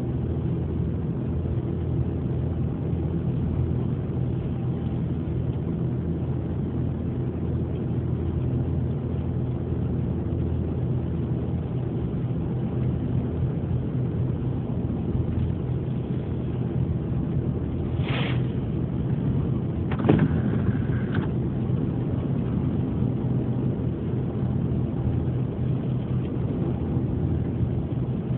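Steady low drone of a ferry's engines, running evenly. About two-thirds of the way through there are a few short sharper sounds, the loudest a single knock.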